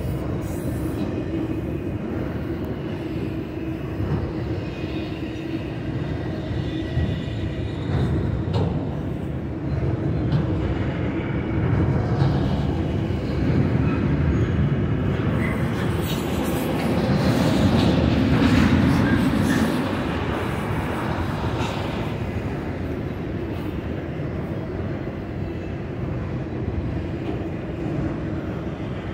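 Autorack freight cars of a long train rolling past: a steady rumble of steel wheels on the rails with scattered clanks, swelling briefly about two-thirds of the way through.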